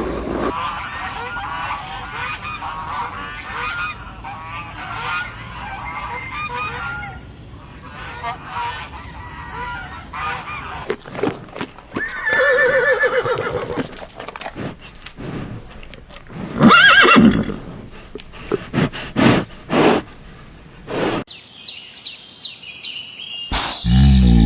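A run of farm-animal sounds: many small chirping calls in the first part, then a horse whinnying with a quavering call about halfway through, followed by several loud calls and sharp knocks.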